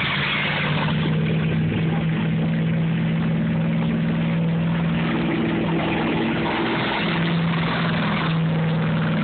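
Truck engine held at steady high revs while the truck drives through water, with a constant rush of water spray over it.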